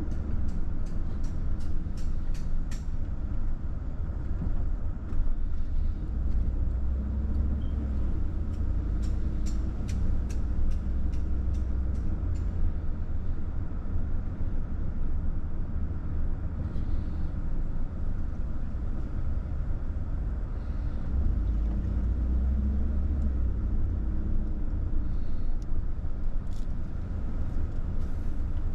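A car driving, with a steady low road and engine rumble. Runs of quick sharp ticks come twice: near the start and again about ten seconds in.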